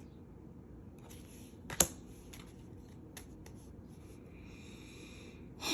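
Tarot cards being handled and shuffled with faint rustling, a sharp card tap a little under two seconds in and a few lighter clicks after it.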